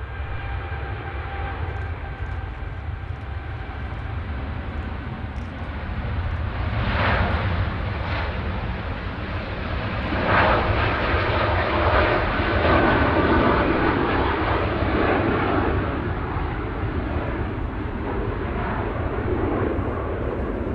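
Jet airliner's engines: a steady whine over a low rumble, growing louder about seven seconds in and loudest between about ten and fifteen seconds as the aircraft passes.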